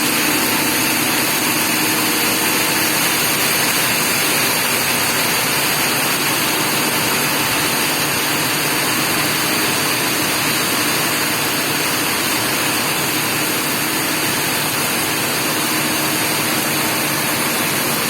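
Heavy rain pouring down, a dense, steady hiss, with a faint steady hum underneath.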